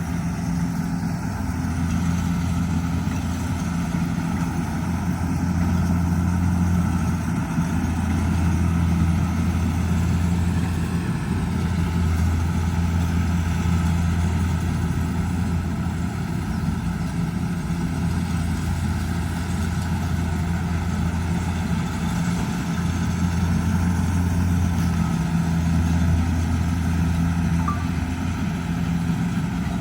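Kubota DC70G Plus combine harvester's diesel engine running steadily, a low drone that swells and eases slightly every few seconds.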